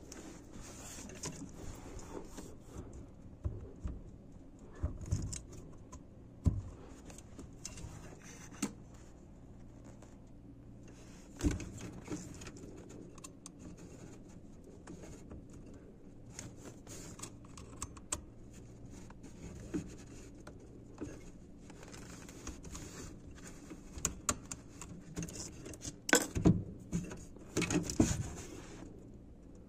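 Hand tools and small metal parts being handled: irregular clicks, light rattles and knocks, with a louder knock near the middle and a cluster of louder knocks near the end.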